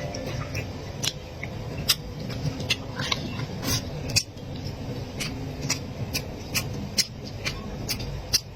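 Close-miked eating sounds: chewing and mouth noises with irregular sharp clicks, several a second.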